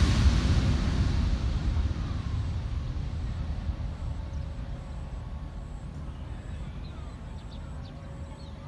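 Boeing 787-9's GEnx-1B turbofan engines at takeoff power, a low rumble fading steadily as the airliner climbs away.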